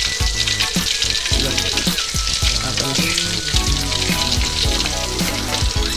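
Fish frying in hot oil in a steel wok, a steady sizzle, under background music with a regular beat.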